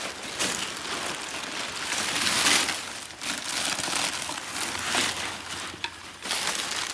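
Packaging wrap being handled and pulled open by hand, a run of irregular rustles and small crackles that is loudest about two and a half seconds in.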